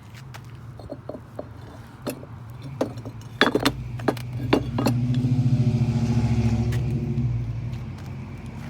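A run of sharp clinks and knocks, then a motor's steady pitched hum that swells for a few seconds and fades.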